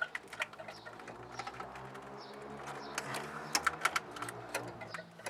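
Irregular small clicks and taps of hands working a fuel pipe and its plastic clips onto a fuel filter, over a faint steady low hum.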